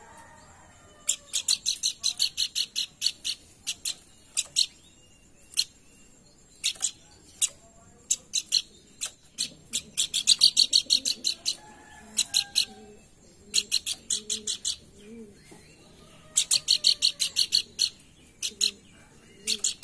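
Pelanduk bukit song: bursts of rapid, sharp, high chirping notes, each burst lasting about one to two seconds, repeated with short pauses. It is a bird-lure recording meant to set other birds singing. Faint lower hooting notes come in under it during the second half.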